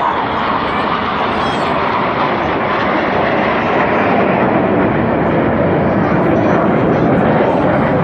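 Red Arrows BAE Hawk T1 jets flying past in formation: a loud, continuous jet roar that swells gently.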